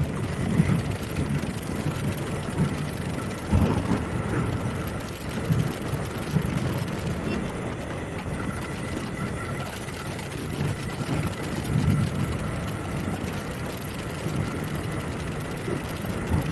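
Kawasaki Z900 inline-four motorcycle running at road speed, heard from a camera mounted on the tail, with wind buffeting the microphone in low gusts.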